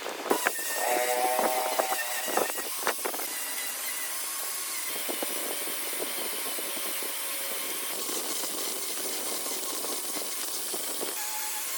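Electric power tool working wood, running steadily, with a few sharp knocks in the first three seconds.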